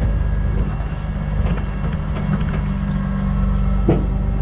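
Heavy diesel engine running steadily at idle, with scattered metallic clicks and knocks and one sharper clank near the end.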